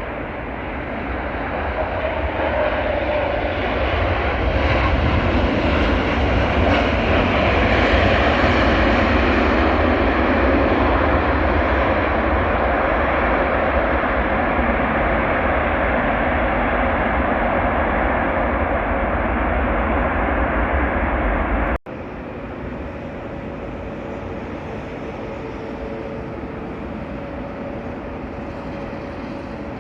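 Jet airliner on approach to land, its engine noise building over the first few seconds and staying loud. About three-quarters of the way through it cuts off abruptly, giving way to a quieter steady rumble with a faint hum.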